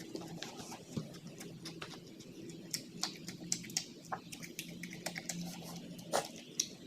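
Close-up eating sounds: a person chewing with the mouth open, making many short, irregular wet clicks and smacks over a low steady hum.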